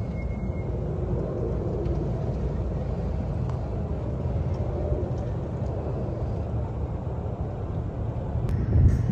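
Steady low rumble of vehicle engines, growing louder near the end.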